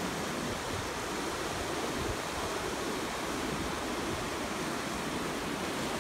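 Ocean surf washing on the shore: a continuous, even rush of water with no single wave standing out.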